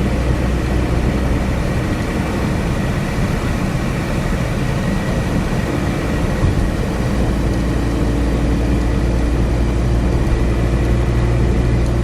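Motorbike engine running steadily under way, with wind and road rush buffeting the microphone.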